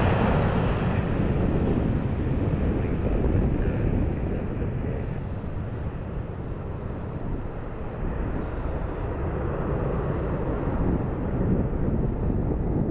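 Aircraft engine noise, easing off a few seconds in and then building again, with gusty wind buffeting the microphone.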